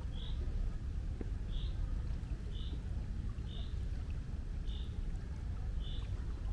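Steady low rumble of sea water and wind, with a short high chirp repeating evenly about once a second.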